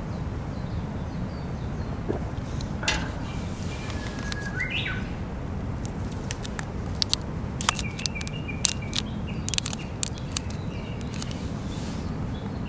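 Wild birds chirping over a steady low background noise, with a scattering of sharp clicks or snaps, most of them in the second half.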